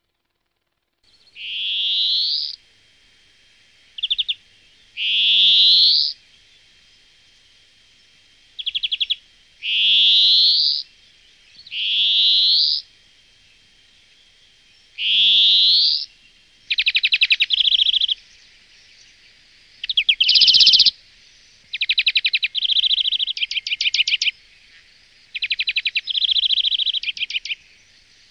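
Wild bird calling: a series of rising notes, each about a second long and a few seconds apart, then from about halfway on, fast rattling trills following one another closely.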